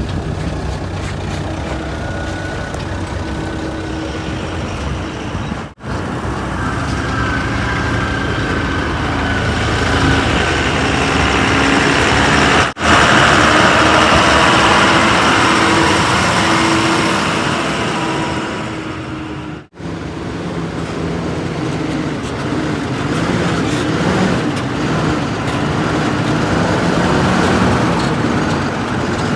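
Heavy diesel engines of earthmoving vehicles running steadily, cut off abruptly three times and picking up again straight after.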